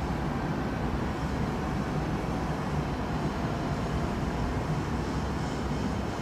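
Steady low rumbling background noise with a faint hiss above it, even throughout with no distinct events.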